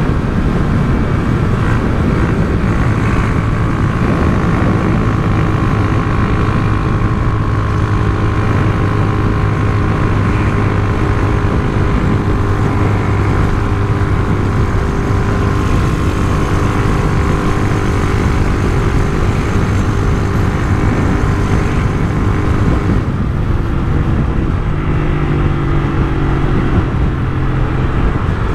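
Honda CG Titan 150's single-cylinder four-stroke engine running through an aftermarket Turuna exhaust, holding a steady engine speed. About three quarters of the way in the note changes and settles at a higher pitch.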